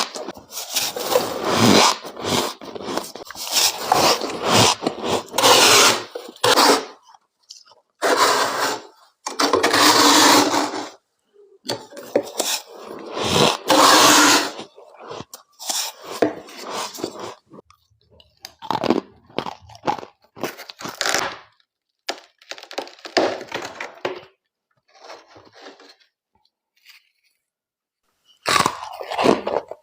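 Close-up crunching of hard humidifier freezer frost being bitten and chewed, in runs of a few seconds with short pauses between bites. It goes faint and stops for a couple of seconds near the end, then starts again.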